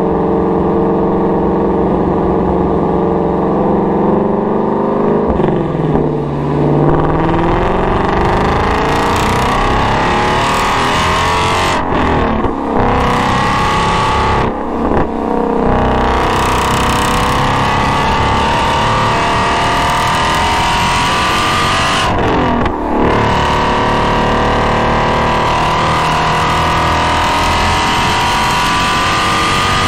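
Shelby GT350's 5.2-litre flat-plane-crank V8, recorded close to its GT350R exhaust. It runs at low, steady revs for the first few seconds, then accelerates hard. Its pitch climbs through the gears, with short dips at each of several upshifts.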